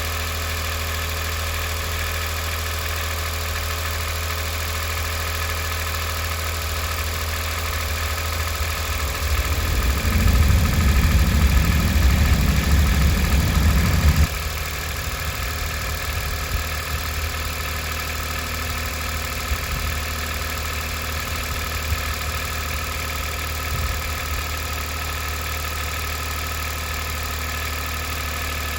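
Daihatsu Atrai Wagon's small three-cylinder engine idling, worn past 110,000 km and now running on thick 15W-50 motorcycle oil. About nine seconds in, a louder low rumble builds for about five seconds, then cuts off suddenly back to the steady idle.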